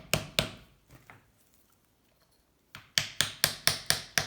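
Quick hammer blows on a piece of wood held against a Honda C70 engine case to split the case halves, about four strikes a second. The blows stop after about half a second and resume about two seconds later.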